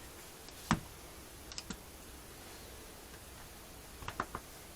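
Sparse small clicks and taps of hydraulic valve lifters being handled and fitted into the cylinder head. There is one sharper click under a second in, a few light ticks around the middle, and a short cluster of clicks near the end.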